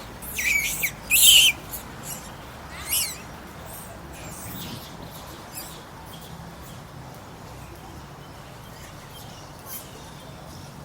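Long-tailed macaques squealing: several sharp, high-pitched squeals in the first second and a half and another about three seconds in, then fainter squeaks.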